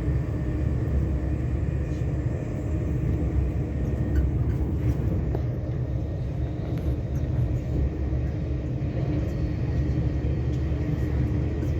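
Passenger train carriage from inside while under way: a steady low rumble of the running train, with a few faint ticks and rattles.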